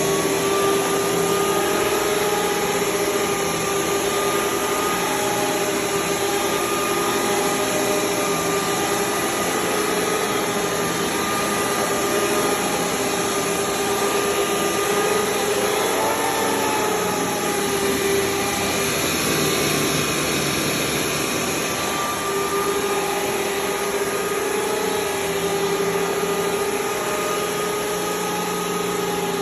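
Hoover Tempo 450 vacuum cleaner with power nozzle running steadily, a constant motor whine over a rush of air whose pitch wavers slightly now and then.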